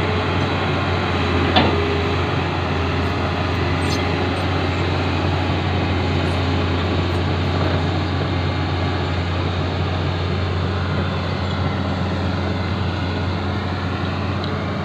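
Excavator's diesel engine running steadily under load, with one sharp knock about one and a half seconds in.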